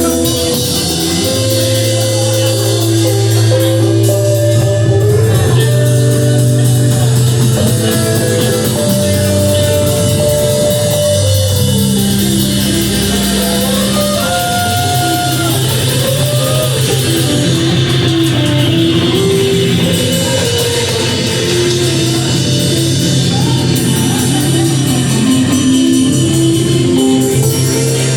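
Rock song played by a band: drum kit, guitars and steady held bass notes, with a voice in places.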